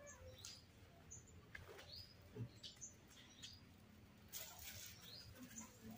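Faint, short bird chirps repeating every second or so over quiet room tone.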